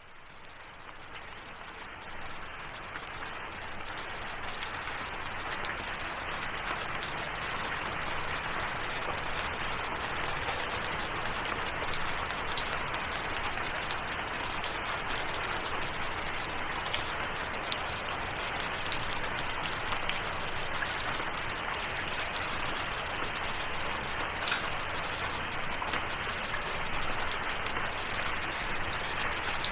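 Steady rainfall with the small ticks of individual drops hitting a surface. It fades in from silence over the first few seconds, then holds even.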